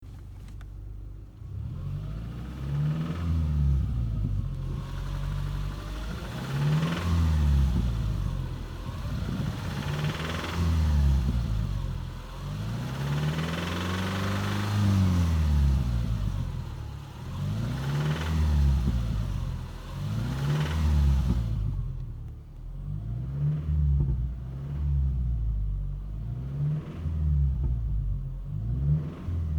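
2009 Subaru Legacy's boxer engine being revved up and back down over and over, slow swells about every three to four seconds, then shorter, quicker blips about two-thirds of the way in. It is revved to bring out a knock that the owner can't place between rod knock and tensioner knock.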